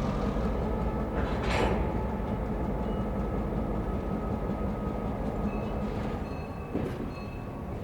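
EMD diesel-electric locomotive running during slow switching moves: a steady engine rumble and hum, with a short hiss about a second and a half in.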